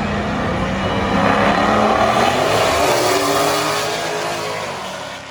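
High-performance car engine at full throttle, accelerating hard with its pitch rising, then fading as the car pulls away.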